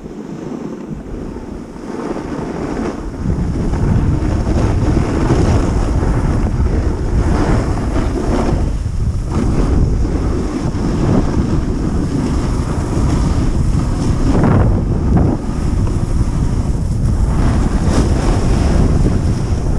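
Wind buffeting a helmet-mounted GoPro's microphone while snowboarding downhill at speed. It is a loud, steady rumbling rush that grows louder about three seconds in, with a few brief louder surges.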